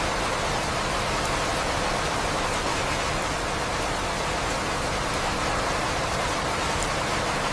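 Steady rain falling, an even unbroken hiss at a constant level.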